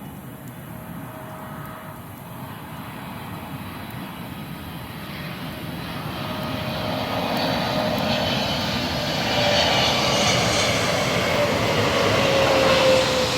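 Jet airliner flying low overhead, its engine noise building steadily to a peak near the end, with a whine that falls in pitch as it passes.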